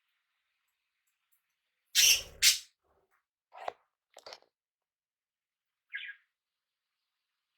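Small pet parrots calling: two loud, harsh calls about two seconds in, a few shorter calls soon after, and a single chirp near the end.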